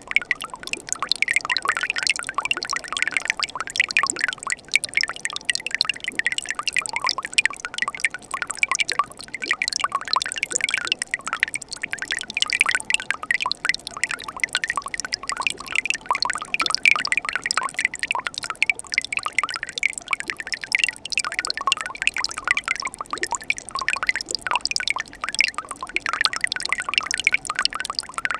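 Mountain stream babbling steadily: a dense, unbroken patter of small trickles and splashes.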